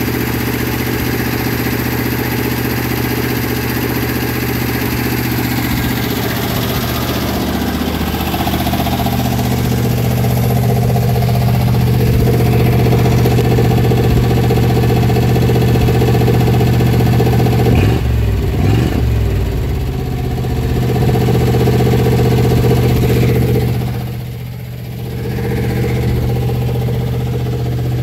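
1957 Ford Fairlane 500's engine running steadily on a Holley 2300 two-barrel carburetor. Its speed wavers briefly about two-thirds of the way through, and the sound dips for a moment near the end.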